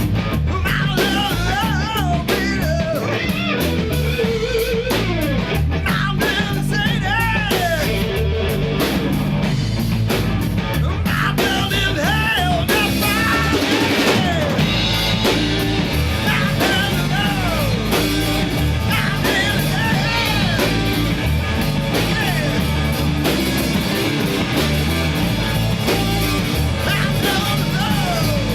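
Rock song by a three-piece jam band: singing over electric guitar and drums.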